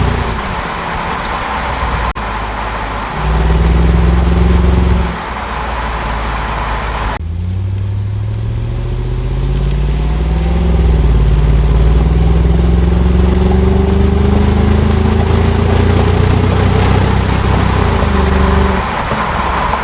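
2001 Jaguar XK8's AJ27 V8 exhaust under acceleration, in short spliced pulls, with the engine note climbing in pitch. In the longest pull the note rises, dips briefly and climbs again.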